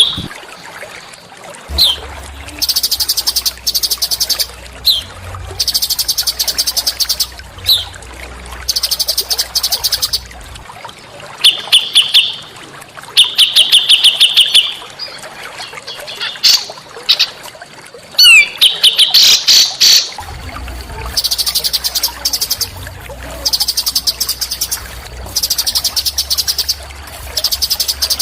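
A small songbird singing a series of very high, rapid buzzy trills about a second long each, separated by short pauses and a few sharp sweeping chip notes.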